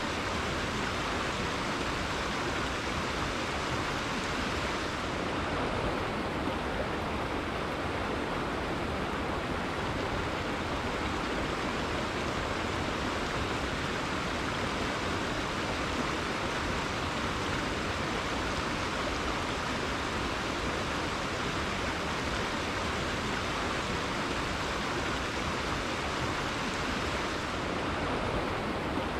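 River water flowing steadily: an even, unbroken rush of water.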